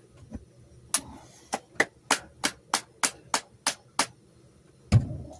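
A run of about ten sharp, hard clicks, evenly spaced at roughly three a second, then a single heavier, deeper knock near the end.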